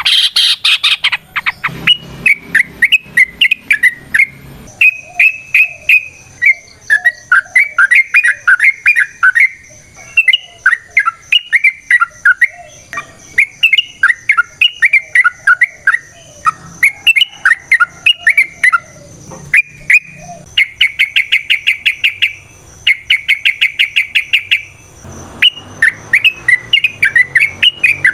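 Yellow-vented bulbul singing loud, bubbly chattering phrases of quick gliding notes, one after another, in the long run of song that keepers call 'ropel'. About two-thirds of the way through, the song breaks into two fast, even trills.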